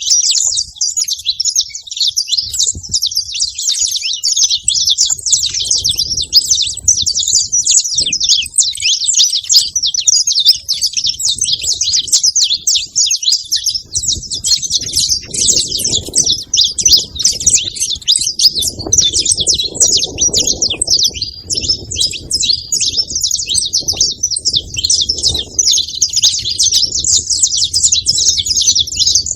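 Saffron finches chirping and calling without pause, a dense stream of rapid high chirps. A low rumble joins underneath from about halfway through.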